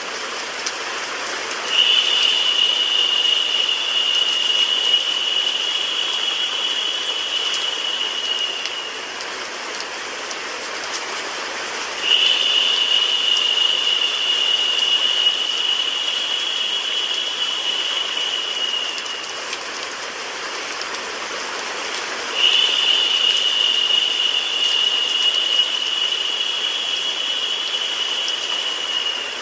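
Rain sound mixed with steady white noise, an even hiss. A brighter, higher hiss comes in sharply three times, about ten seconds apart, each lasting some seven seconds before fading.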